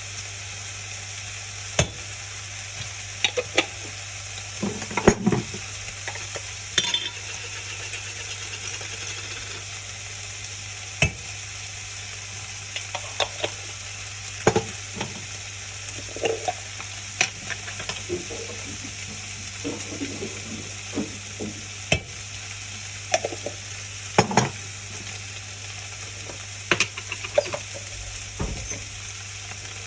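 Food sizzling in a frying pan while a utensil stirs it, knocking and scraping against the pan at irregular moments over a steady hiss.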